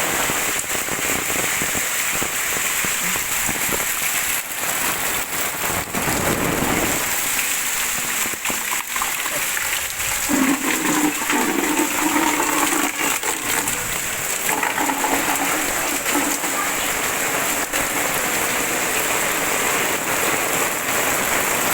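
Heavy rain pouring steadily. For a few seconds in the middle a pitched sound rises above it.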